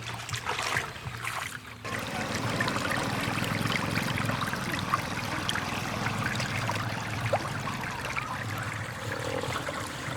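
Running water trickling and flowing steadily, getting louder about two seconds in.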